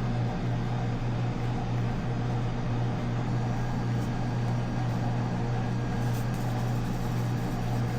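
Steady low machine hum, unchanging, over a faint even hiss.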